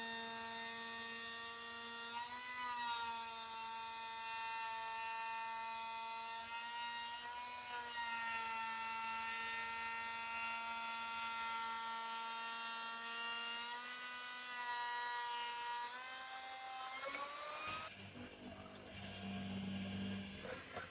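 An electric power tool's motor running with a steady high whine, its pitch wavering a few times as the load changes, then stopping near the end and giving way to a lower, rougher rumble.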